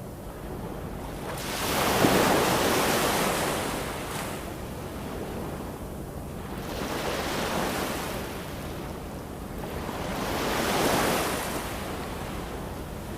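Ocean surf: waves swelling and falling away in three slow surges about four to five seconds apart, the loudest about two seconds in.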